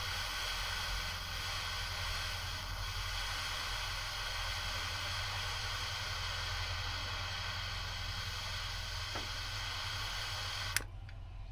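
A steady hiss that switches on with a sharp click just before and cuts off with another click near the end.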